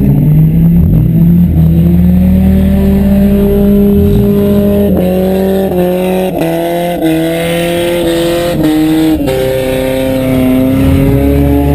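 Demolition derby car engines running loud, one revving repeatedly so its pitch climbs and drops several times in the middle of the stretch.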